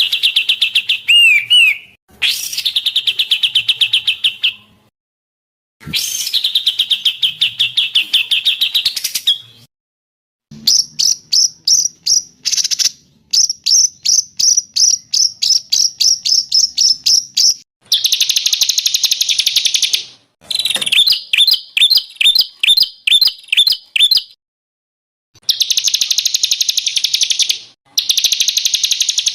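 Songbird song from a tutor recording. Fast rattling trills are held two to four seconds each, broken by short silent gaps. Through the middle come runs of quick separate chirps, about three or four a second.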